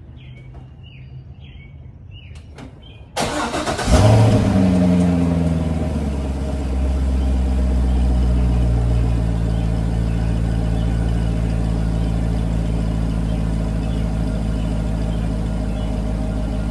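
A car's V8 engine cold-started: the starter cranks briefly about three seconds in, the engine catches with a sharp rev flare that settles within a couple of seconds, then it idles steadily and crazy loud through its deleted mufflers.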